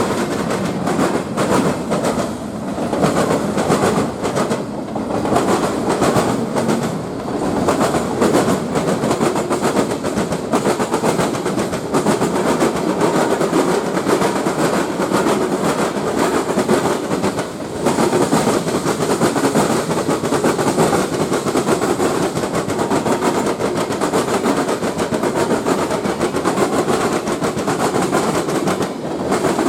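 A train rolling past, its steel wheels clattering over the rails in a steady stream of clicks and knocks that goes on for the whole stretch.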